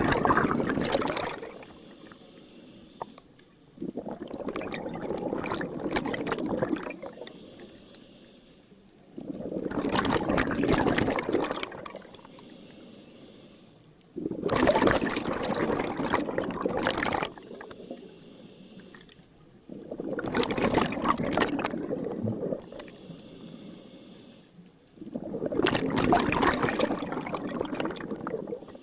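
Scuba diver breathing through a regulator underwater: a rush of exhaled bubbles for two to three seconds about every five seconds, with a fainter hiss of inhalation in between.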